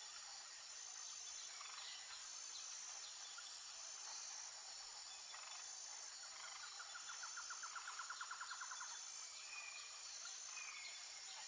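Faint outdoor nature ambience: a steady high insect buzz with a few short bird chirps. Past the middle comes a rapid trill of about ten pulses a second that lasts a couple of seconds.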